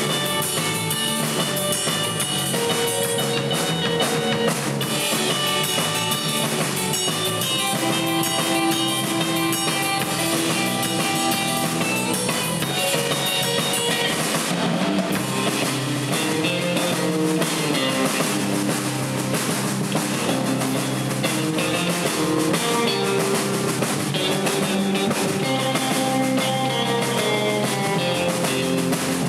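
Surf rock instrumental played live by a band: a Fender Stratocaster electric guitar carrying the lead over a Fender Precision bass and a drum kit, at a steady level throughout.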